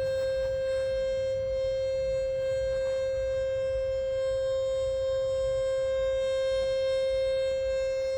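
Lovetuner 528 Hz breath whistle blown as one long, steady, unbroken note.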